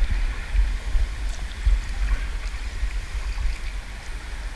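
Water lapping and trickling around a sea kayak, with small drips and splashes, under an uneven rumble of wind on the microphone.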